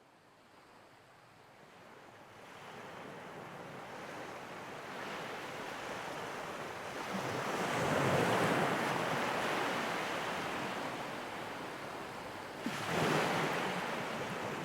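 Ocean waves washing ashore, fading in from silence. One wave builds to a peak about eight seconds in, and another breaks about thirteen seconds in.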